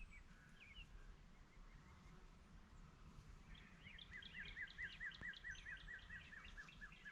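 A songbird singing a fast, even trill of repeated notes, about five a second, that starts about halfway through, with a few scattered chirps before it over faint outdoor background noise.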